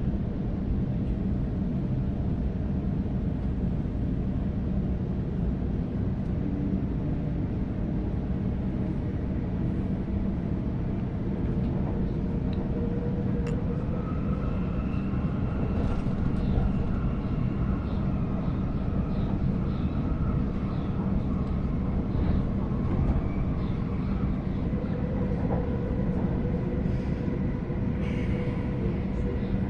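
Sydney Trains Waratah electric train running, heard from inside the carriage: a steady rumble, with a faint whine joining in about halfway through.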